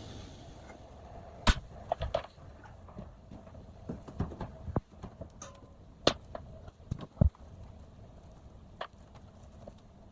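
Scattered sharp knocks and clicks at irregular intervals, the loudest about one and a half seconds in and again past the seven-second mark, over a low rumble of wind.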